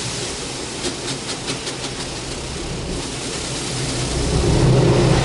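Mark VII AquaJet GTO-700 touchless car wash gantry running, heard from inside the car: a steady hiss of spray with a motor hum. The hum eases off at first, a quick run of about half a dozen clicks comes about a second in, and the motor hum comes back louder near the end.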